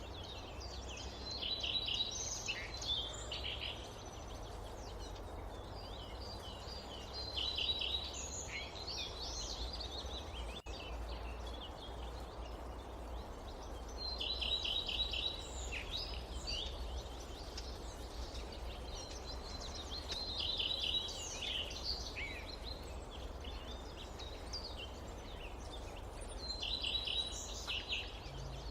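Forest ambience: a songbird repeats a short phrase of quick notes about every six seconds, five times, over a steady low rumble.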